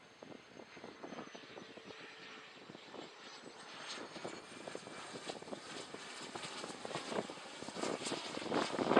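Jet airliner engines growing steadily louder as the aircraft approaches, with a thin high whine that rises slightly in pitch about three seconds in. Gusty wind buffets the microphone throughout.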